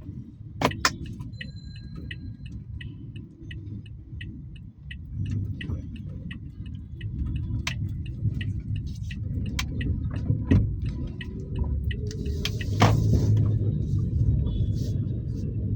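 Steady low road and engine rumble of a Toyota Axio heard from inside the cabin while driving in city traffic. A light, regular ticking runs through the first several seconds, with a few sharp clicks and a short hiss about three-quarters of the way through.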